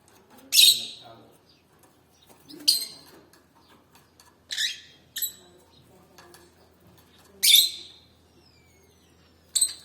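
Canary giving short, sharp high-pitched calls, six in all, spaced about one to two seconds apart.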